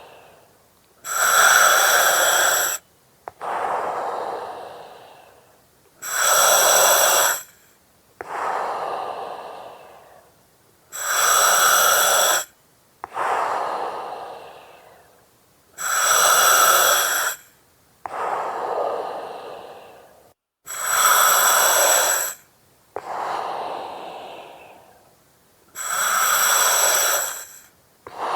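Slow, regular breathing through an oxygen mask, about one breath every five seconds. Each cycle has a loud, hissing breath of about a second and a half that starts abruptly, then a softer breath that fades out.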